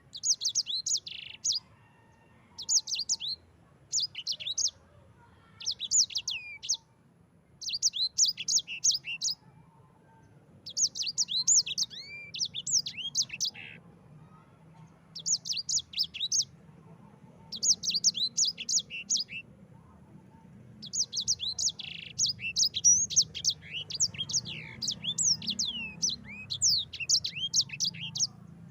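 Yellow-fronted canary (sanger) singing: quick, high twittering phrases of a second or two with short pauses between, joining into a longer unbroken rolling song in the last third.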